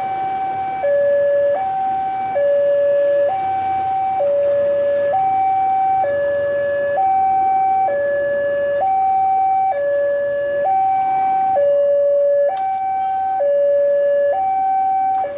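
Railway level crossing warning alarm sounding: a loud electronic two-tone signal alternating steadily between a lower and a higher note, each held a little under a second, warning that a train is approaching.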